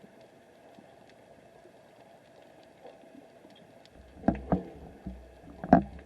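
Underwater recording: a faint steady hum, then from about two-thirds of the way in about four sharp knocks over a low rumble, the loudest near the end.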